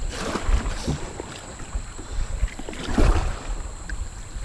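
Kayak drifting in creek current: water washing and splashing against the hull, with irregular knocks, the loudest about three seconds in.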